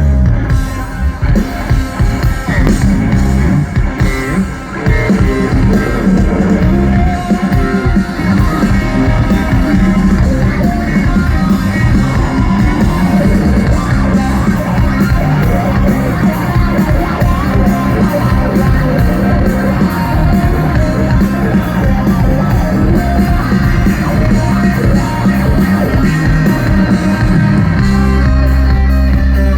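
Rock band playing live, loud electric guitars over a drum kit, with a heavy bass low end that swells into a held low note near the end.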